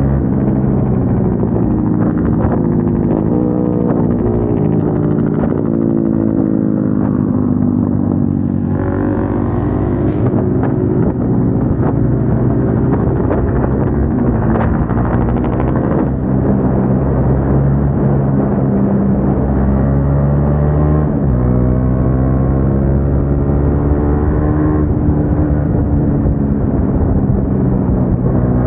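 Single-cylinder motorcycle engines on aftermarket exhausts, a KTM Duke 390 with an SC Project full system and a Bajaj Dominar 400 with an Akrapovič slip-on, running hard at road speed. The engine pitch climbs, drops about eight seconds in and again about two-thirds of the way through, then climbs again, as the bikes change gear.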